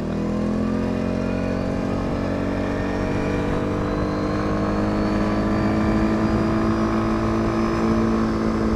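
CFMOTO CFORCE 550 quad bike's single-cylinder engine pulling under steady acceleration, its note climbing slowly over the first few seconds and then holding. It runs smoothly, after a full service, valve check and new exhaust gasket.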